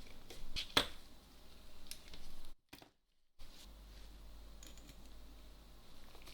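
Light clicks and taps from small parts and tools being handled during camera repair work, the sharpest click a little under a second in. A short gap of dead silence falls just before the middle, followed by a low hum with a few faint ticks.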